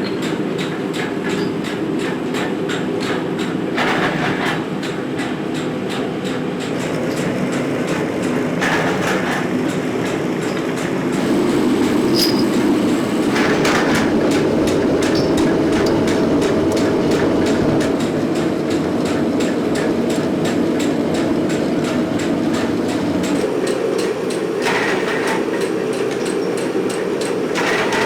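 Metalworking machinery running steadily in a workshop making steel pins, with a fast, even rattling clatter and short louder bursts every few seconds.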